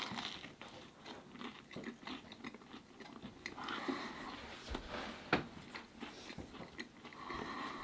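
A person biting into and chewing a slice of crispy-crust pepperoni pizza, with crunching and small mouth sounds, and a sharper crunch a little past five seconds in.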